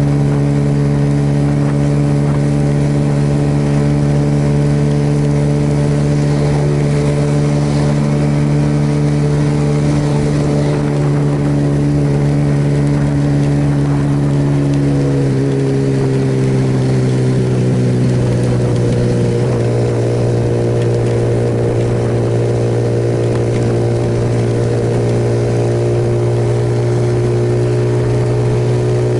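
Suzuki Yes single-cylinder motorcycle engine running steadily at cruising speed, with a constant rush of wind and road noise. About halfway through the engine note drops a little and settles at the lower pitch.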